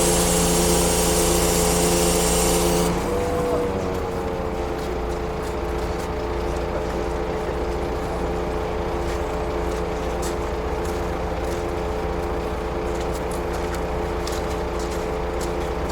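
Scania truck's diesel engine running steadily at idle. About three seconds in, a higher hissing running noise cuts off, the engine note dips briefly and the sound settles lower and quieter. Faint clicks come in the last few seconds.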